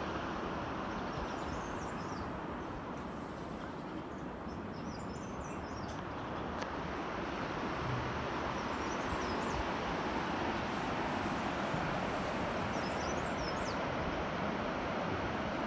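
Steady road noise of a vehicle on the move, with a few faint high chirps over it.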